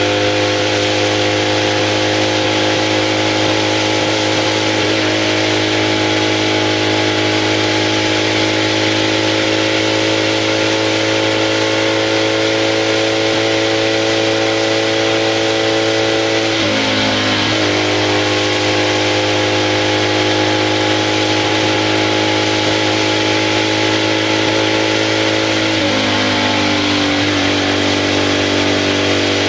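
BMW 700 RS racing car's air-cooled flat-twin engine running hard under load, heard from inside the cockpit while climbing a mountain road. Its note holds steady, then dips and picks up again twice, about halfway through and near the end.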